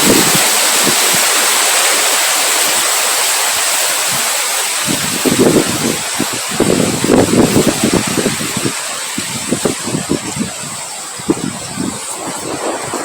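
Steady hiss of rain and wind, with irregular low gusting rumbles that swell and fade, strongest in the middle.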